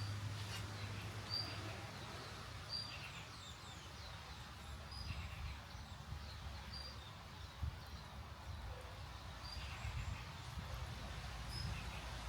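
Short, high bird chirps repeating every second or two, some with quick falling notes, over a faint steady hiss.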